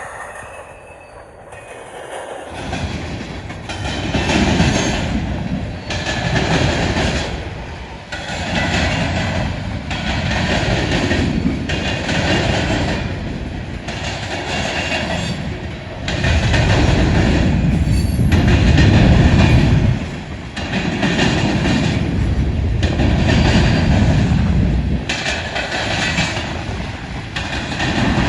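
Covered hopper cars of a BNSF grain train rolling past on the rails: steady wheel-on-rail rumble and clatter that comes in strongly about two and a half seconds in. The sound swells and eases about every second and a half as the cars go by.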